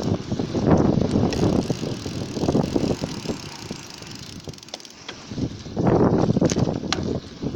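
Bicycle in motion recorded from a camera mounted at its back wheel: irregular tyre noise and rattling. It eases off for a couple of seconds around the middle, then comes back louder near the end.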